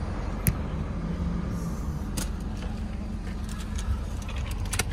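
Toyota Yaris Cross's engine running, heard inside the cabin as a steady low hum, with a few sharp clicks.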